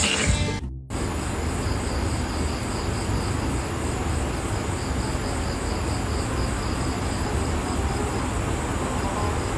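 Insects chirping in a high, quick, even pulse over a steady low hum and hiss.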